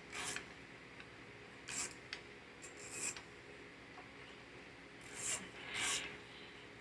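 Short scraping and rubbing sounds of metal parts and hand tools being handled as the mower's carburetor top bracket is taken off: about five brief scrapes spread out, with quiet between them.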